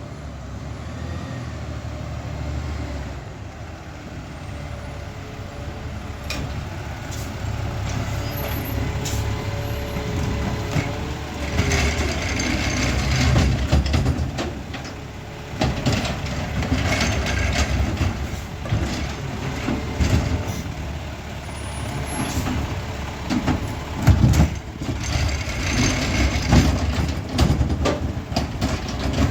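Peterbilt 520 McNeilus ZR garbage truck running on its route: a steady diesel rumble, with several bursts of air hiss and a sharp knock about 24 seconds in.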